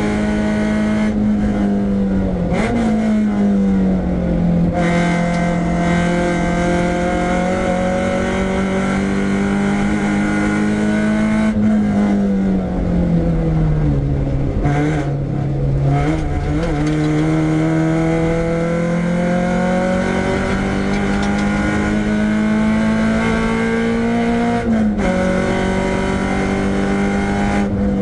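Renault Clio 172's four-cylinder engine running hard on track, its pitch dropping as the car slows, about two seconds in and again from about twelve to fifteen seconds in, then climbing slowly under acceleration. The note jumps abruptly about two and a half seconds in and again near the end, at gear changes.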